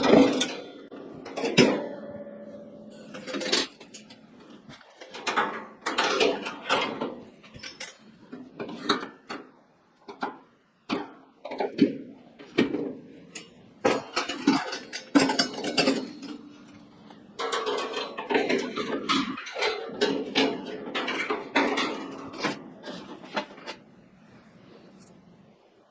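Irregular metal clanks, knocks and rattles, some with a brief ring, of kerosene heater parts being handled. They die down near the end.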